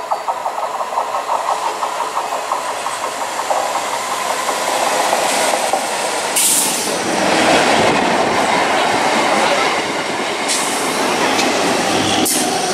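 Electric multiple unit (EMU) local train approaching and running past close by, its noise swelling as it nears: wheels clattering over the rail joints and a steady rush of the moving coaches. A brief hiss about six seconds in.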